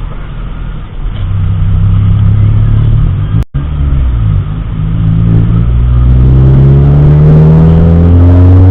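Car engine running and accelerating, its pitch rising steadily over several seconds as it speeds up.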